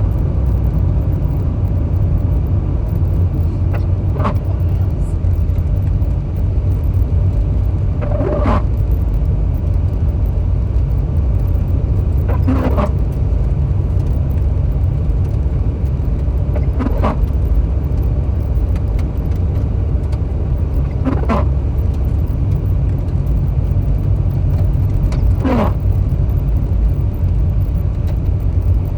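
Car cabin while driving: a steady low rumble of engine and tyres on the road. Over it, a short sweep of falling pitch repeats evenly about every four seconds, like windshield wipers on an intermittent setting clearing snow.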